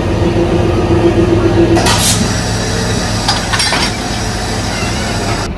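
Kalka–Shimla narrow-gauge toy train moving off: a steady low rumble with a held tone that stops about two seconds in, then sharp metallic clinks and clanks around two and three and a half seconds in.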